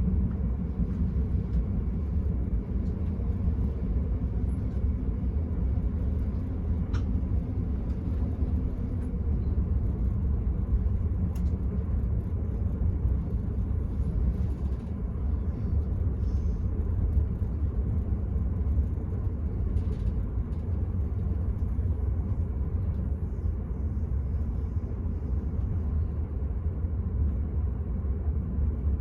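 Steady low rumble of an Enterprise passenger train running along the line, heard from inside the carriage, with a few faint clicks.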